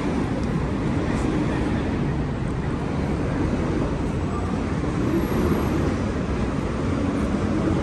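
Steady city traffic noise, a low even rumble.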